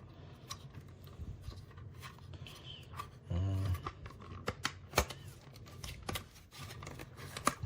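Scattered sharp clicks and light knocks of a plastic hard-drive enclosure's case being handled and its cover clips pressed shut, one of the louder clicks about five seconds in.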